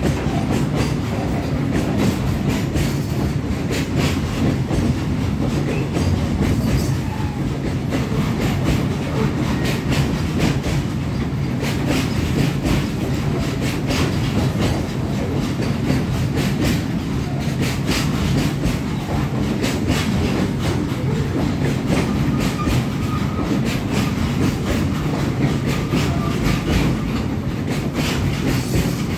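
Freight train of loaded flat wagons rolling past close by: a steady heavy rumble with the steel wheels clattering over the rail joints in a continuous clickety-clack.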